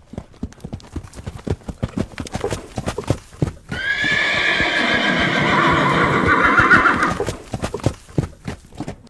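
Horse hooves clip-clopping in a quick, uneven rhythm. About four seconds in, a horse whinnies loudly for about three seconds, a long call that wavers toward its end, and then the hoofbeats carry on.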